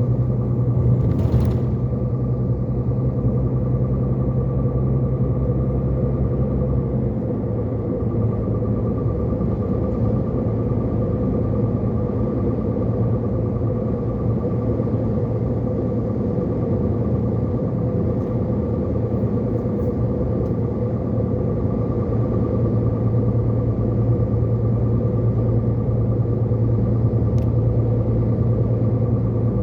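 IVECO Hi-Road 440 heavy truck's diesel engine running steadily as the loaded truck descends a steep grade, a deep drone with a steady high whine above it. The low tone shifts slightly about seven seconds in.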